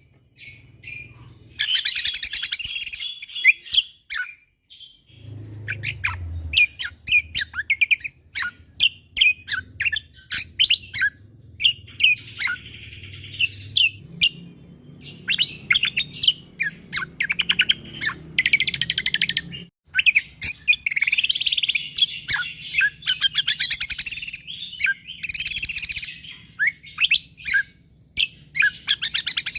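Cucak kombo (kecial kombo) songbird singing in rapid, densely packed bursts of sharp chirps and trills, with a brief pause about four seconds in. A faint low hum runs underneath.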